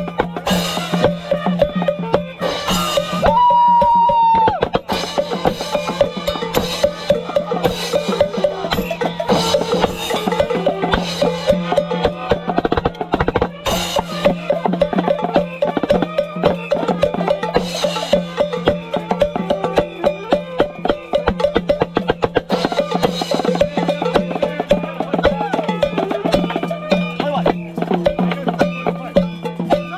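Drum band jamming: many drums played together in a dense, continuous rhythm. About three seconds in, a single high note is held for over a second over the drumming.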